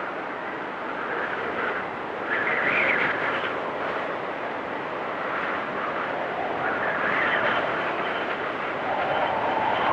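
Storm wind blowing in gusts, with a whistling that rises and falls in pitch. The strongest gusts swell up about two and a half seconds in and again around seven seconds in.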